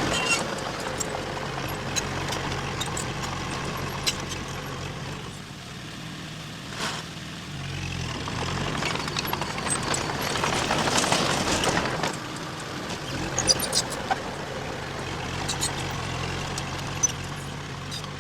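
Diesel engine of heavy earthmoving machinery running steadily, with scattered metallic clanks. It grows louder and rougher for a few seconds in the middle.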